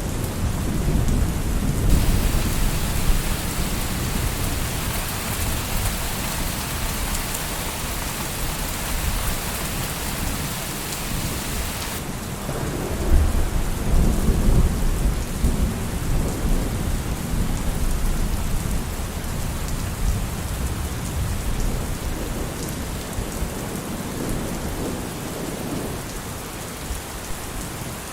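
Steady rain falling with rolling thunder. Low rumbling at the start, then the rain hiss grows brighter and louder for about ten seconds, and a fresh roll of thunder swells about 13 seconds in and slowly fades.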